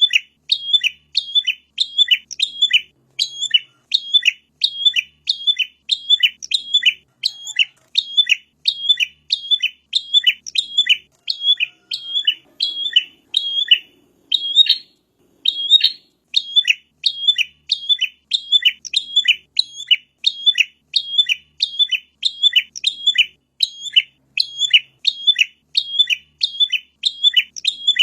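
Prenjak (prinia) singing: a quick, sharp chirping note repeated about twice a second, almost without pause, with a brief break a little past the middle.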